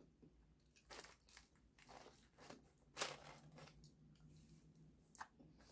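Faint close-up chewing and mouth sounds: a scatter of soft crunches and smacks while eating, the loudest about three seconds in.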